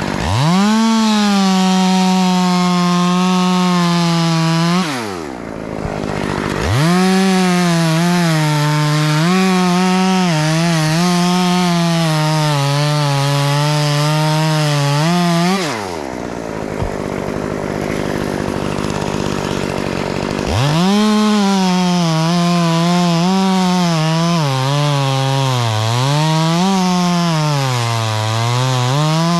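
Stihl two-stroke chainsaw run at full throttle through three long cuts, dropping back to idle between them. Its engine pitch sags and wavers as the chain bites into the wood.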